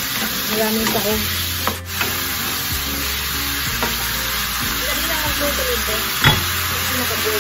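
Squid rings sizzling as they fry in a nonstick pan, stirred and scraped with a wooden spatula, with small clicks and one sharp knock about six seconds in.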